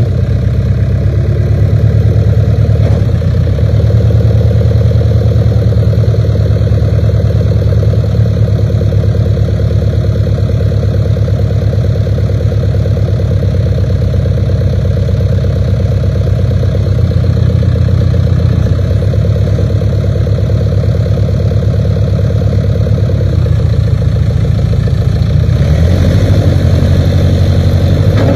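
1988 Case 580K backhoe loader's diesel engine running steadily at idle, with a slight shift in its low tone near the end.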